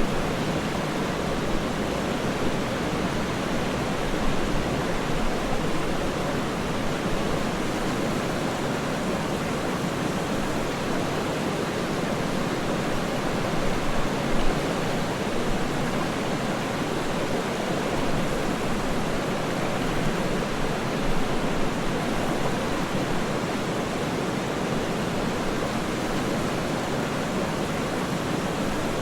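Waterfall rushing steadily, an even wash of falling water with slight swells in loudness.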